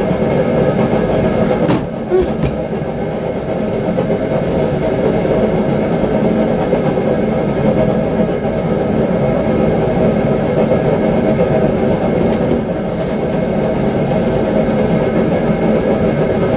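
Forge running with a steady, loud rushing noise and low hum. A few light clicks come about two seconds in.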